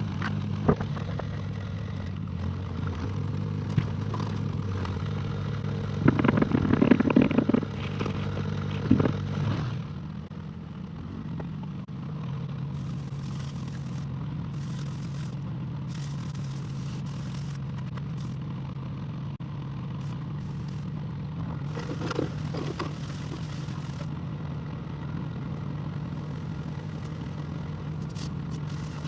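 Excavator's diesel engine running steadily, with loud stretches of scraping and clattering from the bucket working the ground about six to nine seconds in and again, more briefly, later on. The engine note drops and settles about ten seconds in.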